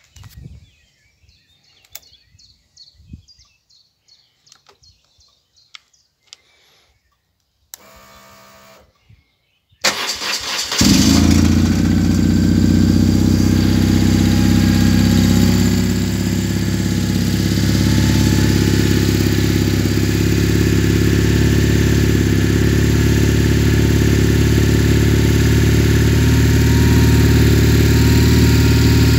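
Faint clicks of the key and switches, a whir of about two seconds from the fuel pump priming, then a 1996 BMW R1100GS's 1085 cc boxer twin is cranked on the electric starter, catches about eleven seconds in and settles into a steady idle.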